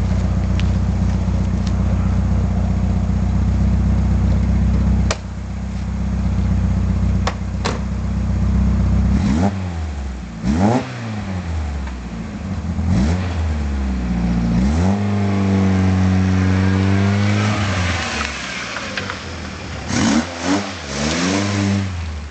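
Peugeot 205 GTi's Mi16 16-valve four-cylinder engine, fed by motorcycle carburettors, running through a full 2.5-inch stainless steel exhaust. It idles steadily for about five seconds, then is blipped repeatedly. One rev is held for a few seconds before falling back, and several quick blips come near the end.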